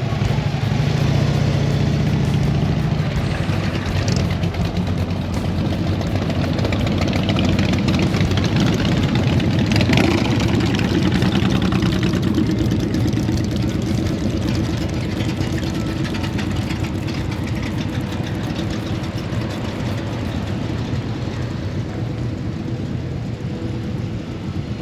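Engines of a line of cars rolling past and idling in slow traffic, a steady mix of engine rumble and road noise that swells about halfway through.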